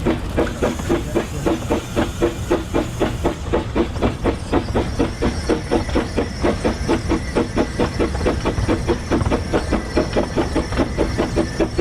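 Narrow-gauge steam locomotive working, its exhaust beats coming steadily at about three a second and quickening slightly, over a constant hiss of steam.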